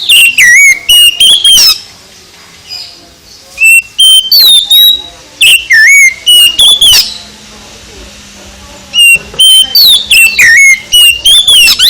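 Oriental magpie-robin (kacer) singing loud, varied whistled phrases full of quick rising and falling slurs. The song comes in four bursts with short pauses between them.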